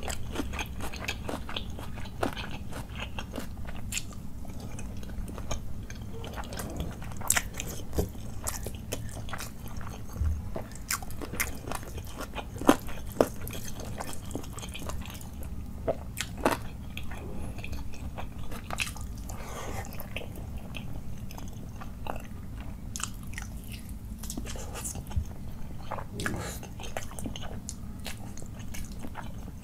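Close-miked eating sounds: a person chewing mouthfuls of rice and chicken curry eaten by hand, with many short wet clicks and smacks of the mouth, and fingers mixing rice and curry on a plate.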